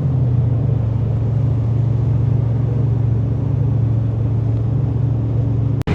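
Jet boat engine running at a steady cruise, a loud, even low drone. It breaks off abruptly just before the end.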